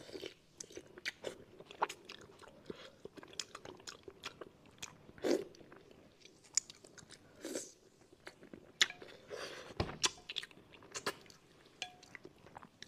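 Close-miked eating: a person chewing and sucking pieces of fish in sauce off fins and bones, with many sharp, wet mouth clicks and smacks and a few brief sucking breaths.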